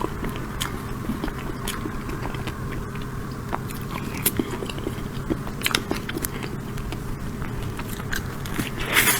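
Close-miked eating: a person biting and chewing chocolate tiramisu cake with nuts, with sharp crunches scattered irregularly through, the loudest near the end.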